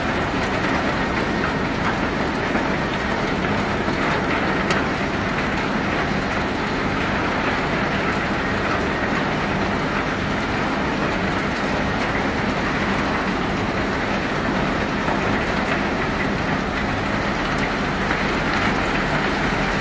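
Self-unloading ship discharging a cargo of pebbles: a steady, dense rattle of stones on the unloading conveyor over a constant low machinery hum.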